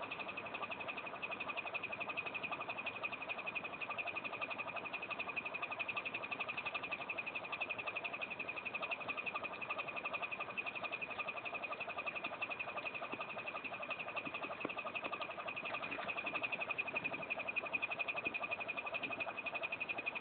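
National (Matsushita) FV-20WR-T window ventilation fan running with a steady, rapid rattling chatter: the abnormal noise it makes when the screw holding the fan blades has worked loose. Heard through a mobile phone's microphone.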